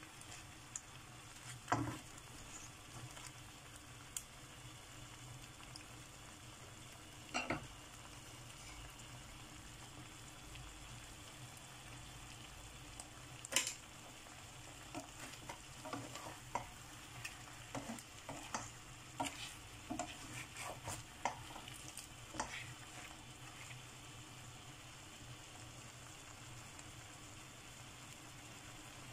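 Shrimp and sliced onions frying in a pan with a faint, steady sizzle. A spatula knocks and scrapes against the pan as they are stirred: a few single knocks, then a quick run of them in the middle stretch.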